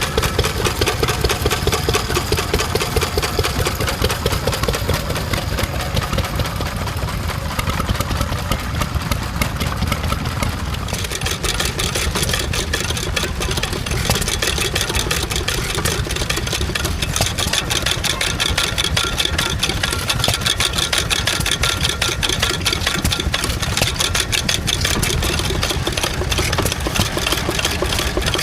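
A stationary engine running steadily with a rapid, even beat. About eleven seconds in, the sound changes suddenly, as a different engine takes over or the sound is cut.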